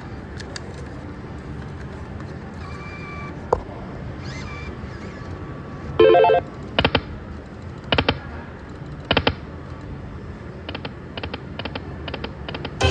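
Slot machine electronic beeps and tones over steady casino background noise: a short pitched jingle about six seconds in, single beeps roughly every second after it, then a quick run of short ticks near the end.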